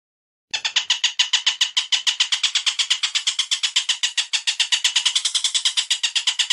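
Bird call from a songbird training recording: a rapid, even string of sharp high notes that starts abruptly about half a second in and keeps going without a break.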